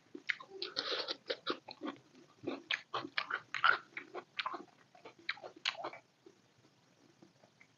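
A person chewing food close to the microphone: a quick run of wet mouth clicks and smacks with some crunching, stopping about six seconds in.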